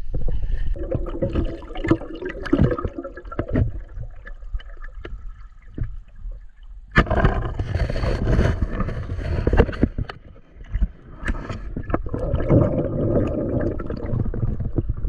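Water gurgling and splashing, with frequent knocks, as a spearfishing diver moves in a waterfall pool. It quietens for a moment around the middle, then picks up sharply again.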